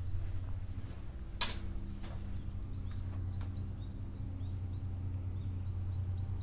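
Many short, high chirps repeating irregularly over a steady low hum, with one sharp click about a second and a half in.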